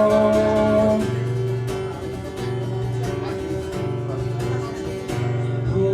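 A band playing an instrumental passage: strummed acoustic guitar chords over a steady bass line, after a held sung note ends about a second in.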